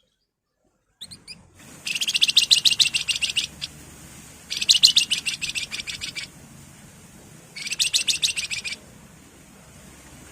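Wergan jawa (flamboyan) singing: a few short chirps, then three bursts of fast, rattling repeated notes, each one to one and a half seconds long with short pauses between, the chattering 'ngebren' song.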